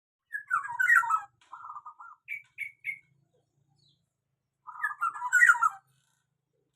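Black-naped oriole singing: a quick jumble of whistled notes, then three short separate notes, and after a pause of about a second and a half another jumbled phrase.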